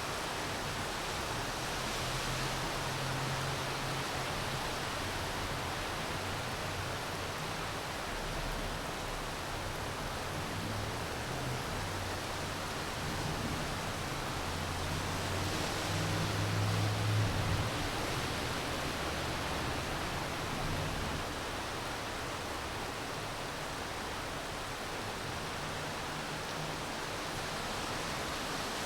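Steady rain falling, an even hiss, with a low hum underneath that comes and goes and is loudest a little past halfway.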